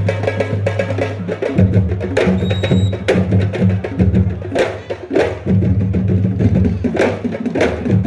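Sabar drums playing a fast, busy rhythm of sharp strokes over a low, steady booming tone.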